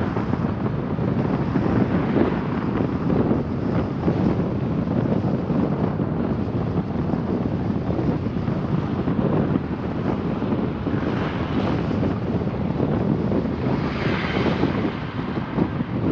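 Steady wind and road noise from a car on the move, with wind buffeting the microphone.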